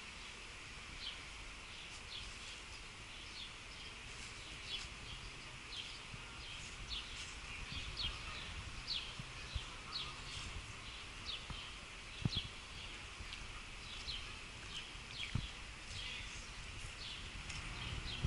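A small bird chirping, short high single chirps repeated about once or twice a second at an uneven pace, over a low background hum of street noise, with a couple of brief thumps in the second half.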